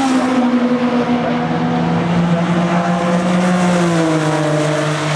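Several racing saloon and sports car engines running hard as the cars go by, their pitch dropping in steps.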